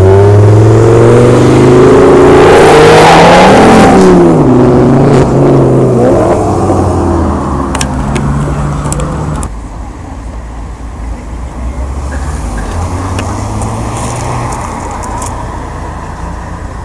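A performance car engine revved hard several times as the car drives past, its pitch rising and falling, loudest in the first four seconds. About nine and a half seconds in it drops abruptly to a quieter, steadier engine sound.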